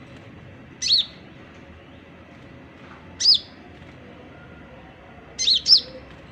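Konin songbird calling with short, sharp whistled chirps, each note arching up and down. The chirps come about every two and a half seconds, and the last is a quick double.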